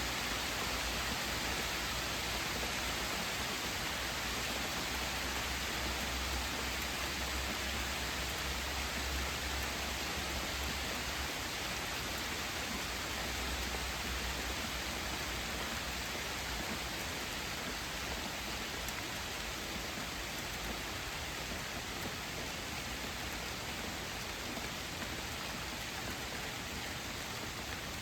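Rain falling steadily, an even hiss with no breaks. A low rumble comes and goes under it through the first half.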